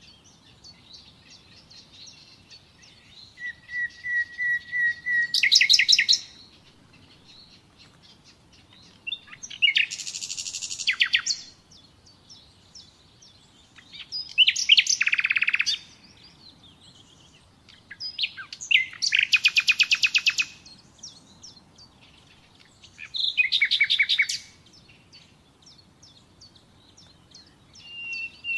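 Nightingale singing in separate phrases a couple of seconds long, with pauses of a few seconds between them, about six in all. Each phrase is a rapid run of repeated notes and trills, and one opens with a string of pure whistled notes.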